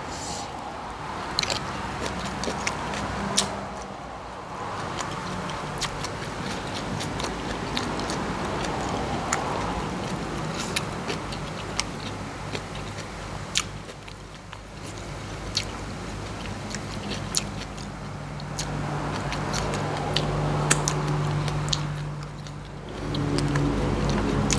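A person chewing jackfruit salad and raw vegetables close to the microphone, with many sharp crisp clicks scattered throughout. Under it runs a steady low hum, and an engine comes up in the background from about three-quarters of the way through.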